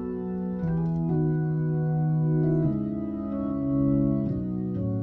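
Hammond A100 organ played through a Leslie 45 speaker: sustained chords in E major changing about every second, with a faint click at each new chord.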